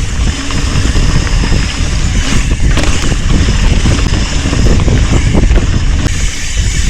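Wind buffeting an action-camera microphone over the constant jolting rumble of a mountain bike riding down a rough trail.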